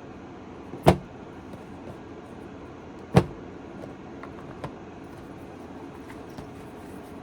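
Two sharp knocks about two seconds apart, then a few lighter clicks, as decks of cards in their boxes are moved about and one is pulled out from under another.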